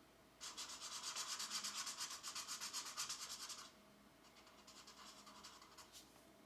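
A pencil colouring on colouring-book paper in fast back-and-forth shading strokes. A long, brisk stretch of scratchy strokes stops, then a lighter, softer stretch follows near the end.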